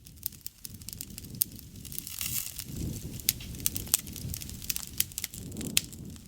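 Wood fire burning, with irregular sharp crackles and pops over a low, steady rumble of the flames.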